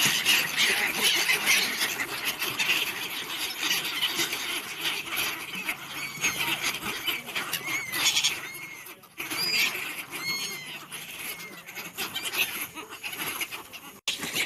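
A flock of birds chattering and squawking, many at once. A few clear, arching chirps stand out between about six and eleven seconds in.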